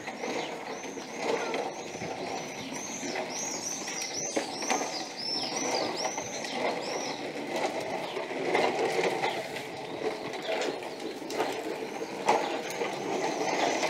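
Small birds chirping: a quick run of repeated high, arched notes for about the first seven seconds, then scattered, over a steady background din of outdoor ambience.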